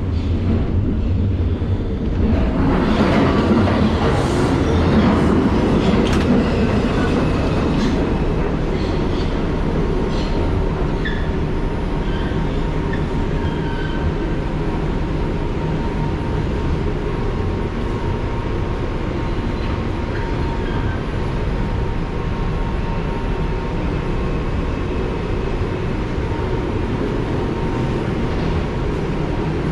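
R142 subway car running through the tunnel, heard from inside: a steady low rumble that swells for several seconds near the start, with a faint steady tone and brief faint high squeals from the wheels now and then.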